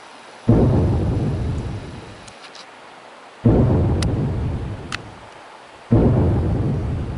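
Three loud, deep booming rumbles from the sky, each starting suddenly and fading away over about two seconds, coming about every three seconds.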